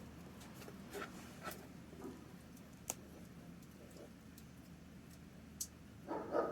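Wood campfire crackling: a few sharp, scattered pops over a faint steady background, with a short louder sound near the end.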